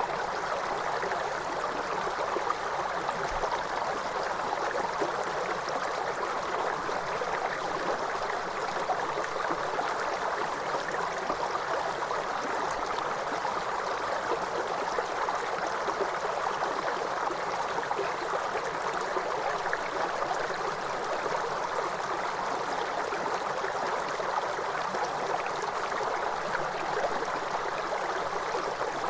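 Waterfall: water pouring and splashing in a steady, unbroken rush, its noise mostly in the middle range with little deep rumble.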